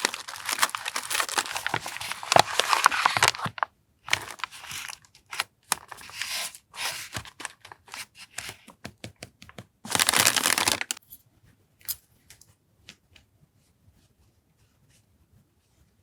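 Packaging being handled and opened: crinkling and tearing in long bursts, the loudest at the start and again around ten seconds in, then faint scattered ticks of small items being moved.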